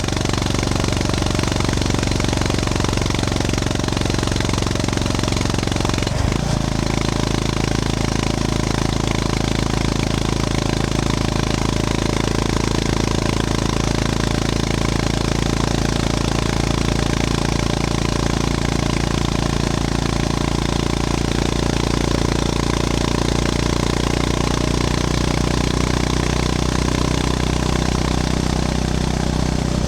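Honda GB350S's air-cooled single-cylinder engine running under way. Its pitch drops sharply about six seconds in, then holds steady.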